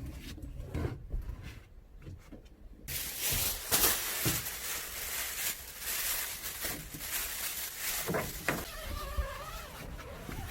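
Rustling and handling noise with scattered knocks, starting about three seconds in, and an insect buzzing with a wavering pitch near the end.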